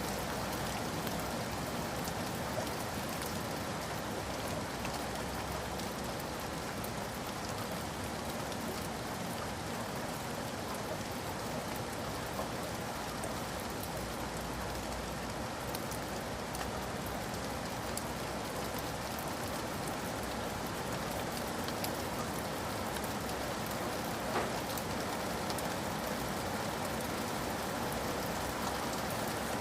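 Steady rain falling, a continuous even patter with scattered drop ticks, used as a rain ambience for studying.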